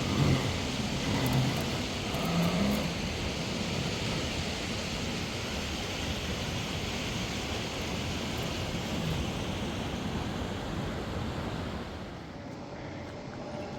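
Steady rushing noise like wind on the microphone, which drops in level about twelve seconds in.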